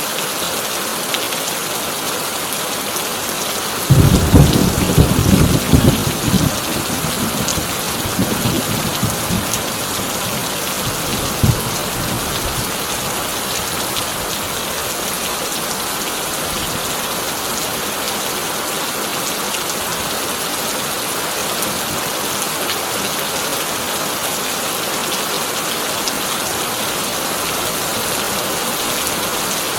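Heavy rain drumming steadily on a corrugated tin roof. About four seconds in, a sudden loud thunderclap breaks with crackling rumbles that roll away over several seconds, with one more sharp crack a few seconds later.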